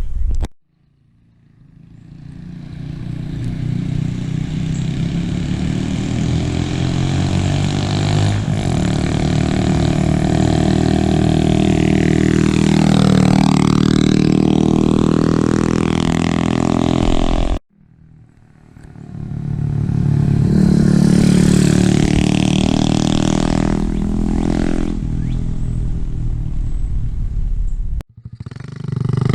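Ice Bear Champion (Honda CT70 clone) mini bike's single-cylinder four-stroke engine through a cheap aftermarket Amazon exhaust, ridden past: the loud engine note builds as the bike approaches and drops in pitch as it goes by, about halfway through. After a sudden cut, a second pass rises and fades away.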